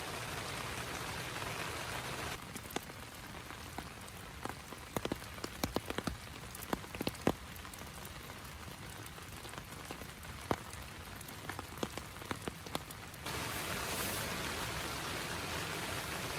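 Steady hiss of heavy rain. About two seconds in, it switches abruptly to a quieter stretch of scattered single raindrops tapping sharply on a surface. Near the end the steady rain hiss returns.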